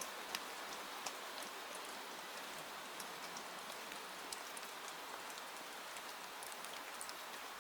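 Steady rain falling: an even hiss with scattered sharp ticks of drops landing.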